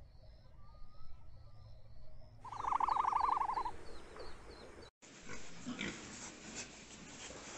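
Small birds chirping faintly, then a loud rapid trill lasting just over a second, about a third of the way in. A few seconds later, domestic pigs grunting and snuffling in a pen.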